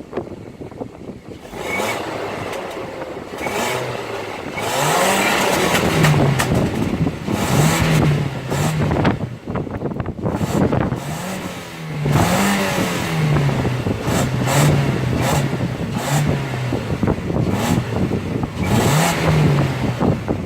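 Exhaust of a warmed-up Volkswagen Passat B5's 1.8 ARG four-cylinder engine, run without a catalytic converter through a flame arrestor and a Polmostrow 30.600 resonator. The engine idles and is blipped up and down in repeated short revs, about eight or nine times.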